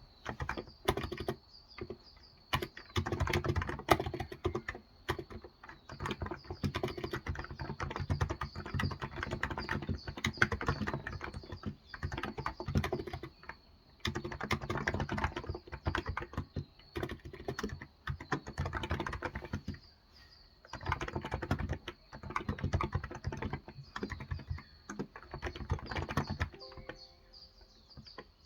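Typing in quick bursts with short pauses on a Cox Endeavour tenkeyless keyboard with 35 g electrostatic capacitive switches.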